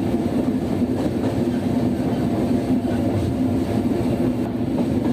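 Diesel train running steadily: a continuous rumble with a steady low hum.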